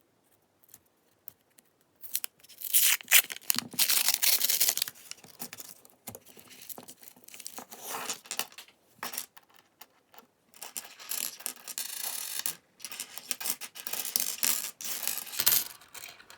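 Paper penny-roll wrapper being torn open and crinkled, starting about two and a half seconds in, followed by scattered small clicks and rustling.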